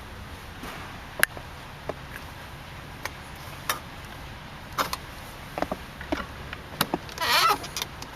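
Light clicks and knocks from handling the fittings of a car interior, about a dozen spread out, then a short squeak of plastic or trim near the end.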